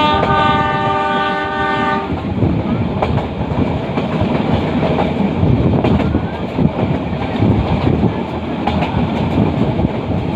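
Metre-gauge passenger train's locomotive horn blown for about two seconds, followed by the rumble and rattle of the coaches running along the track, with scattered knocks of wheels over rail joints.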